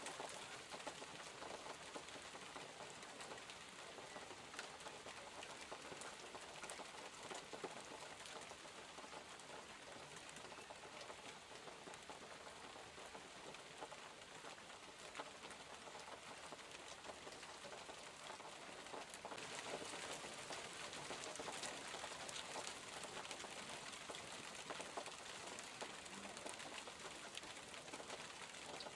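Steady rainfall with many small drop ticks pattering on surfaces, growing heavier and louder about two-thirds of the way through.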